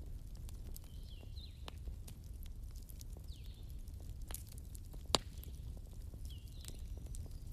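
Fireplace fire crackling: scattered sharp pops and snaps over a steady low rumble, with one louder pop about five seconds in. Faint high chirps recur every second or two behind it.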